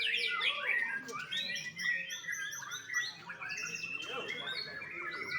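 Young white-rumped shama singing a rapid, continuous run of varied whistles and chirps.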